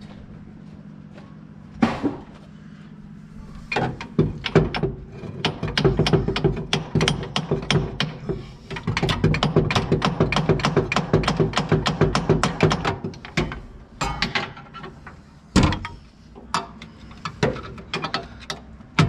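Ratchet wrench working bolts, giving long runs of rapid metallic clicks with a few single knocks between them.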